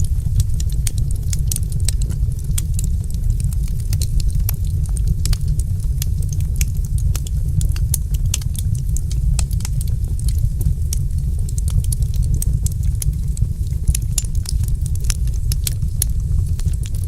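Wood fire in a fireplace crackling: many small, sharp, irregular pops and snaps over a steady low rumble.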